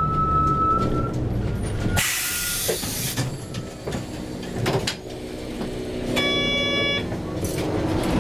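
Bus engine running, cut by a sharp hiss of compressed air about two seconds in, typical of air brakes or doors letting off. Near the end there is a short electronic beep.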